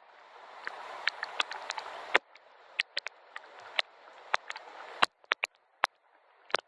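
Gentle rain: a soft steady hiss with scattered drops ticking. The hiss cuts off abruptly about two seconds in, leaving mostly separate drips.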